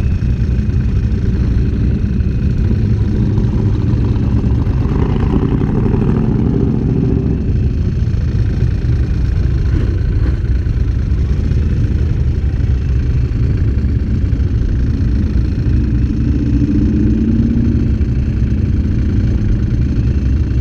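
Steady low rumble of vehicle engines, with a louder swell about five seconds in and another near the end.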